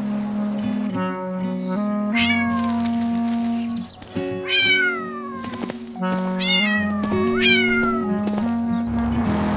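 A cat meowing four times, each long call falling in pitch, over background music with held notes.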